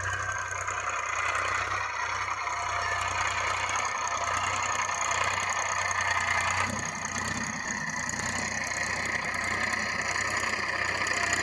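Massey Ferguson 1035 DI tractor's three-cylinder diesel engine running steadily, its note changing about two-thirds of the way through.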